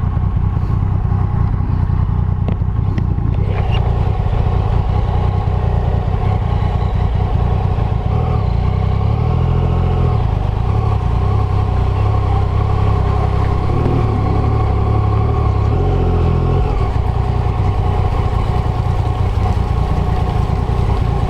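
Yamaha Tracer motorcycle engine running at low speed as the bike is ridden slowly, its note shifting between about 9 and 16 seconds in.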